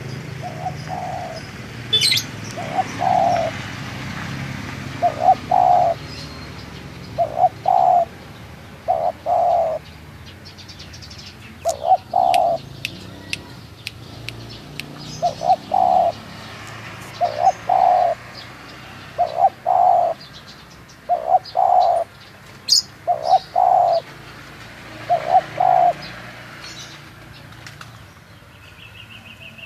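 Spotted dove cooing over and over: short phrases of two or three low coos every couple of seconds, with faint higher chirps and ticks alongside.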